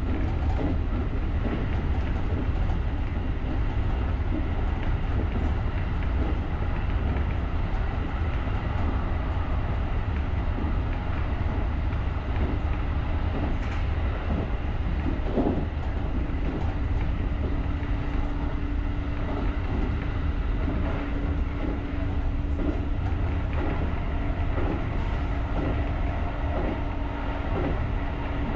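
JR electric commuter train running along the line: steady low rumble of wheels on the rails, with faint clicks. A steady hum joins about twelve seconds in and stays.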